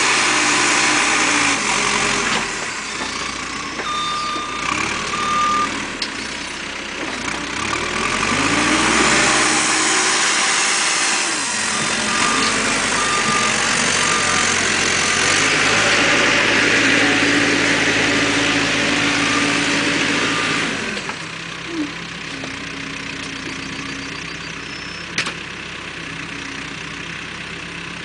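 Caterpillar 432E backhoe loader's diesel engine working, its pitch rising and falling as it revs up and down. About 21 seconds in it drops to a quieter, steady idle, and a single sharp click sounds near the end.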